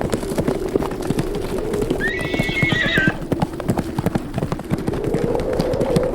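Horses' hoofbeats pounding at a run in a rapid, continuous clatter. About two seconds in, a horse gives one whinny of about a second that drops in pitch at its end.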